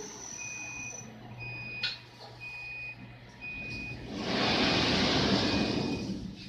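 Machine shop running a CNC wheel lathe: a steady low machine hum with a warning beeper sounding about once a second. A loud hissing rush lasts about two seconds near the end.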